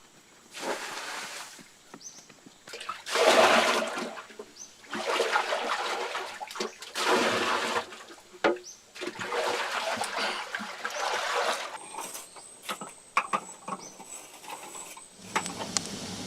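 Water splashing in repeated bursts about a second long, every two seconds or so, followed by several sharp knocks near the end.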